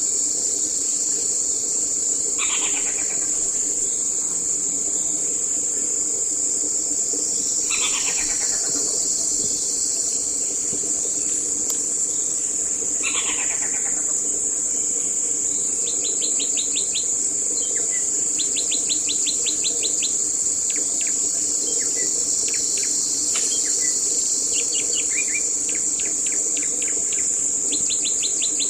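Birds calling over a steady, high-pitched insect drone: three long descending calls about five seconds apart, then quick trilling calls through the second half.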